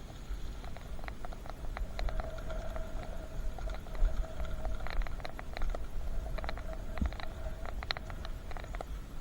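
A bicycle being ridden, with wind rumbling on the microphone, irregular rattling clicks, and a steady whine that starts about two seconds in and stops near the end.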